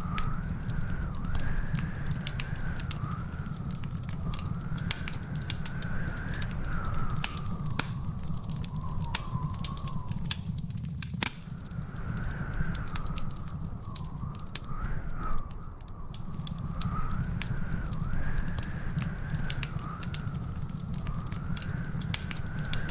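Wood fire in a fireplace crackling, with frequent sharp pops over a steady low rumble. A thin wavering whistle-like tone rises and falls behind it, dropping out briefly about halfway through.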